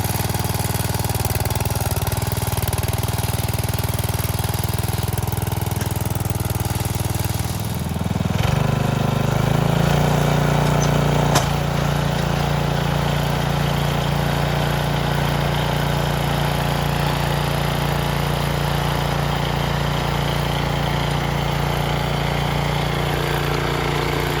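Small gas engine of a garden tiller running steadily while tilling. About eight seconds in, its note shifts and gets a little louder, and a sharp knock comes a few seconds later.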